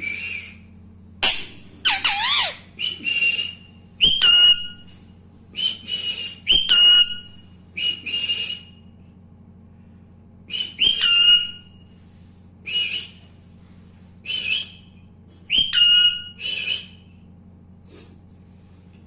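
Alexandrine parakeet giving about a dozen short, shrill whistled calls with sharp rising starts, spaced a second or two apart. A steady low hum runs beneath.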